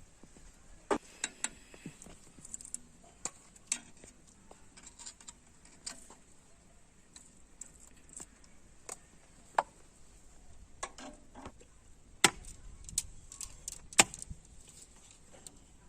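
Irregular light clicks and taps of hand tools and metal parts being handled, with a few sharper knocks in the last few seconds.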